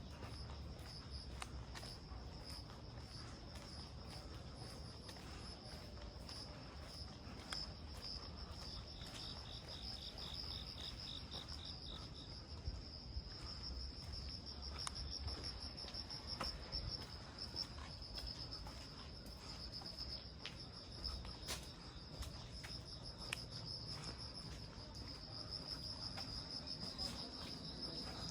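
Crickets chirping in a steady high pulsing trill, with a second cricket joining at a slightly lower pitch for a few seconds about nine seconds in. Scattered faint ticks of rain dripping sound over it.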